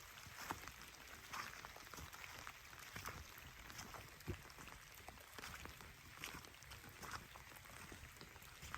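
Light rain, faint: scattered raindrops ticking and dripping at an irregular pace over a soft hiss.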